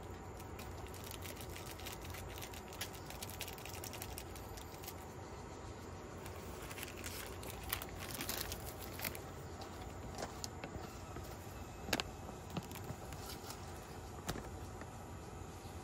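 Low steady background noise with scattered small clicks, taps and rustles, the sharpest knock about twelve seconds in.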